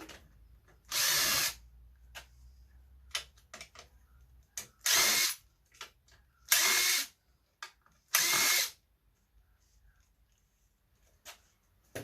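Power drill-driver running in four short bursts of about half a second each, backing out screws from an Apple eMac's casing, with small clicks and knocks of handling between the bursts.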